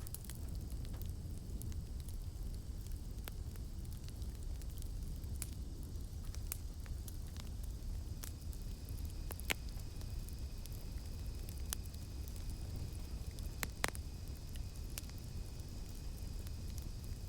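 Campfire crackling: scattered sharp pops and snaps over a steady low rumble of burning wood. A faint, steady, high drone of cicadas sounds in the background and grows a little stronger from about halfway.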